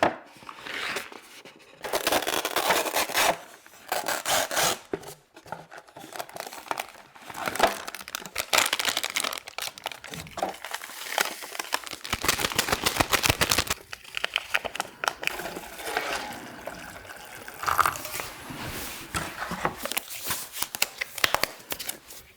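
Food packaging being opened and handled close to the microphone: plastic and paper wrappers torn, crinkled and scraped in irregular bursts of crackling.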